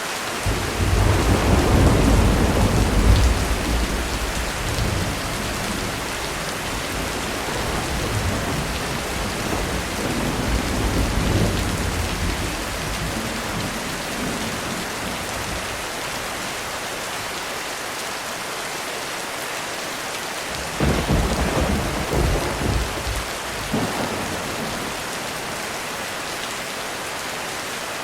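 Heavy rain drumming steadily on a roof, with thunder rumbling in long low rolls about a second in and again around ten seconds, then a sharper thunderclap about three quarters of the way through that rumbles on for a few seconds.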